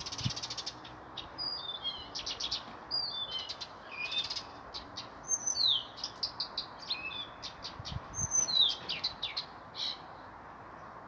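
Several songbirds singing in the trees: a busy mix of quick chirps, rapid trills and short down-slurred whistles, overlapping throughout.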